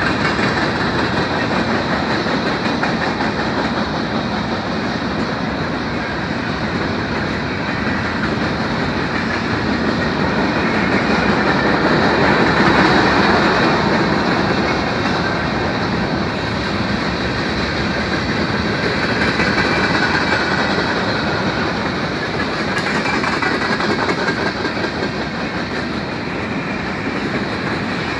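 Freight train cars rolling past fast: a steady loud rumble and rattle with wheels clacking over the rails, swelling a little around the middle.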